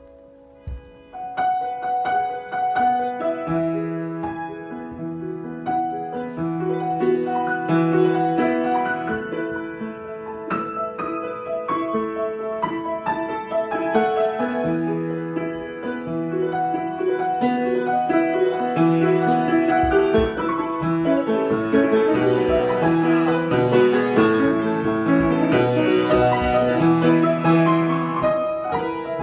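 Solo piano improvisation: chords under a melody, starting about a second in and growing fuller and louder in the second half.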